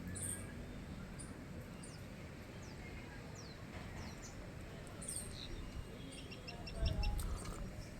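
Small birds chirping: scattered short, high, falling chirps, with a quick run of twittering notes in the second half. A brief low thump near the end.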